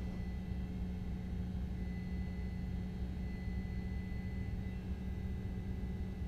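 Steady low rumble and hum of a vehicle, as heard from inside its cabin.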